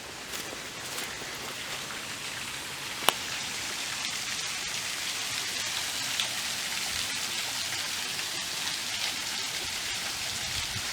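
Steady rush of water from a small woodland waterfall and its stream, growing slightly louder, with one sharp click about three seconds in.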